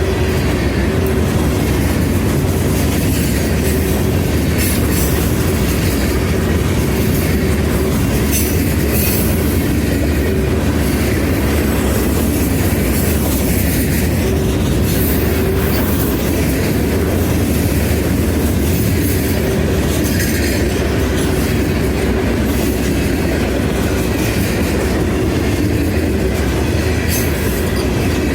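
Railroad cars rolling steadily past at close range: a continuous loud rumble of wheels on rail, with irregular clicks as the wheels cross rail joints.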